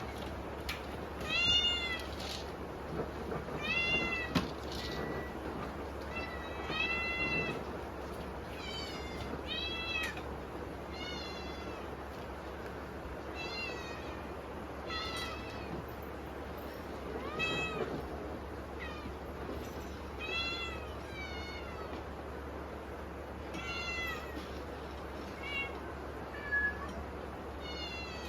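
Munchkin kittens meowing over and over, high-pitched calls that rise and fall, crying for food because they are hungry. Typhoon rain hisses steadily underneath.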